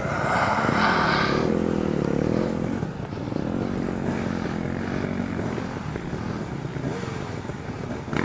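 Dual-sport motorcycle engine revving up and down over the first couple of seconds, then running at lower, steadier revs.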